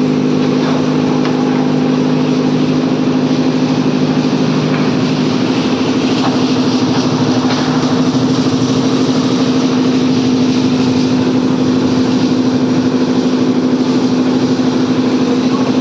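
Airplane engines running steadily with a loud, droning hum over a wide rush of noise; one lower tone drops out about five seconds in, and the loudness then takes on a fast, even pulsing.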